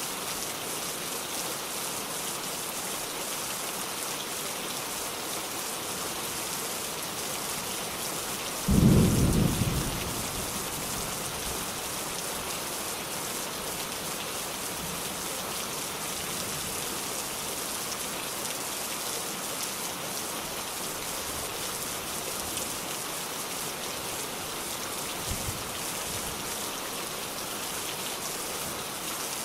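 Steady rain falling, with a single sudden thunderclap about nine seconds in that fades over a second or so, and a faint low knock near the end.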